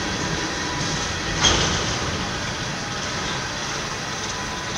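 Empty coal train rolling past unseen: a steady rumbling, rattling noise, with one sharp clank about a second and a half in.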